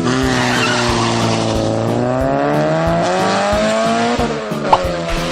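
Cartoon race-car engine sound effect revving, its pitch falling and then rising again, with a hissing tyre-screech noise over it; it drops away a little after four seconds in, with a short sharp hit just after.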